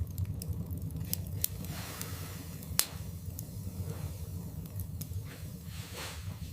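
Wood fire burning in a fireplace, crackling with irregular sharp pops over a steady low rumble of the flames; one louder pop about three seconds in.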